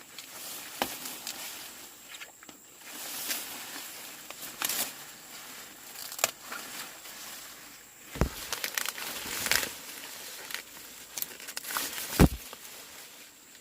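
Corn husks and leaves rustling and crinkling as the plants are handled, broken by sharp snaps, the loudest about eight and twelve seconds in.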